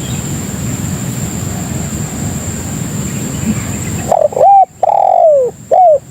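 Spotted dove cooing over a low background rumble. A run of four coos comes in the last two seconds: a short note, an arched note, a long falling note and another arched note.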